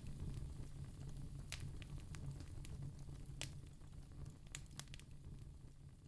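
Wood fire crackling, with a few scattered sharp pops and snaps over a low steady hum, slowly getting quieter.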